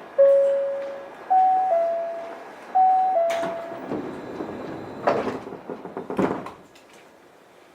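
Osaka Monorail 1000-series train's door chime: one held tone, then two falling two-note chimes, after which the sliding doors close with a series of clunks and knocks.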